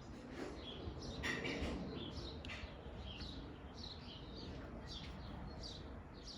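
Small birds chirping repeatedly: short, high chirps, each sliding up or down in pitch, about two to three a second.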